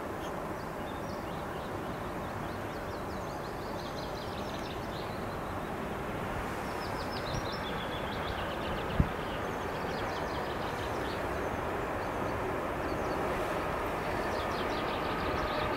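Freight train hauled by two VR Class Sr1 electric locomotives approaching, a steady rumble that slowly grows louder, with a steady high whine coming in near the end as the locomotives draw near. Birds sing over it, and there is a single sharp click about nine seconds in.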